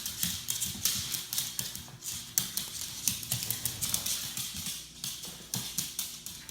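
A Shih Tzu playing with a ball on a hard floor: a quick, irregular run of clicks and taps from its claws and the ball.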